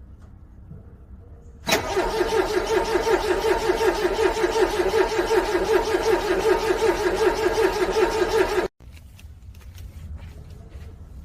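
A car engine cranking on its starter motor in freezing cold, trying to start: a loud, rapid, even pulsing over a steady whine for about seven seconds. It cuts off abruptly without the engine catching.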